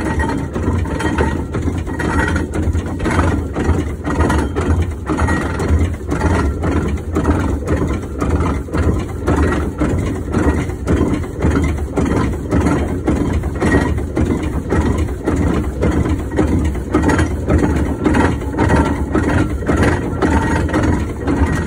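1914 Fowler showman's steam traction engine running under way, its engine beating at an even, rhythmic pace.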